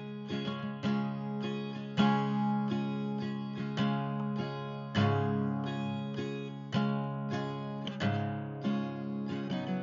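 Background music: acoustic guitar picking notes and chords, with sharp note attacks every second or so over ringing low strings.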